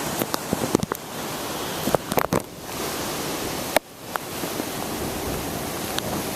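Hurricane wind blowing as a steady loud rush, buffeting the microphone, with several sharp knocks and clicks in the first few seconds and two brief sudden lulls.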